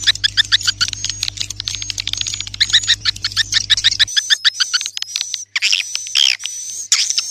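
Swiftlets twittering in a dense run of rapid, high chirps, several a second. A steady low hum lies under the calls and stops about four seconds in; after that the calls come fewer and longer, with falling sweeps.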